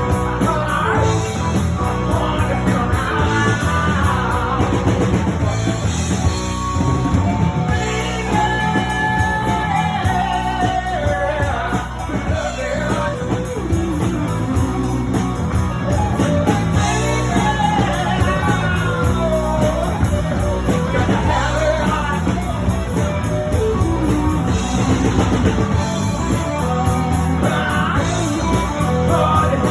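Live rock band playing, with electric guitar, drum kit and singing over a steady bass line, loud and continuous.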